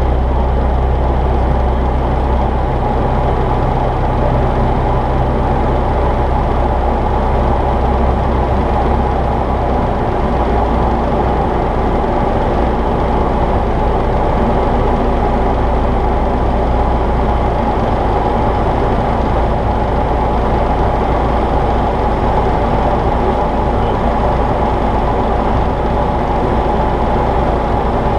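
Jabiru J-170 light aircraft's four-cylinder Jabiru 2200 engine and propeller running steadily, a continuous loud drone whose low tones shift slightly a few times.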